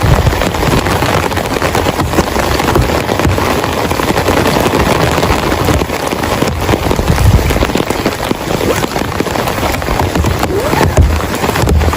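Heavy rain pouring down, a dense hiss of countless drops striking close by, with recurring low rumbles.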